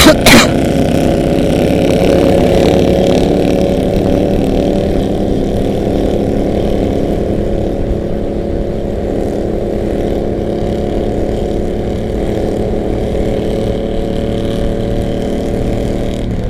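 Harley-Davidson V-twin motorcycles running at a steady cruise, their engine note rising and falling slightly a few seconds in. Two brief loud bursts come right at the start.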